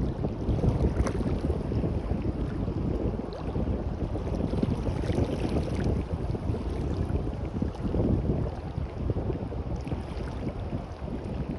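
Wind rumbling on the microphone over the wash of waves on the shore, a fluctuating noise that never stops.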